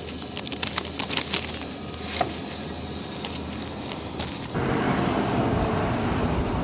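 Scattered light clicks and crackles over a low steady hum, then, about two-thirds of the way through, a sudden switch to a loud steady rush of wind noise.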